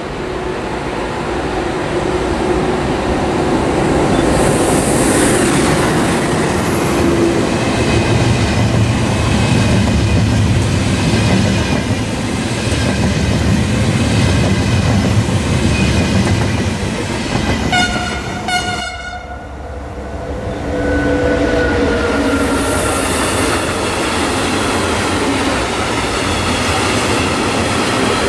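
ÖBB class 1116 Taurus electric locomotive and its Railjet coaches passing at speed, with a steady rumble and wheels clacking over rail joints. A short horn blast sounds about two-thirds in. The sound then cuts to another Taurus locomotive, an ÖBB 1016, approaching with steady pitched tones from its traction equipment over the rail noise.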